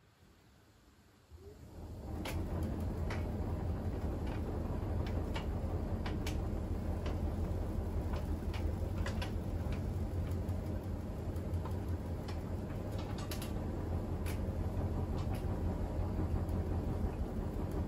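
Siemens iQ700 WG56B2090 front-loading washing machine running, a steady low motor hum from the turning drum with scattered light clicks and ticks.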